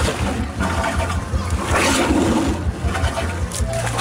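Bilge pump on a banka boat discharging bilge water in gushing surges, the strongest about two seconds in, over a low rumble.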